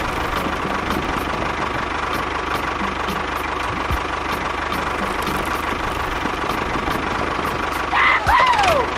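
Small engine of a miniature DIY tractor running steadily with an even knocking beat. About eight seconds in, a brief high sound slides down in pitch twice.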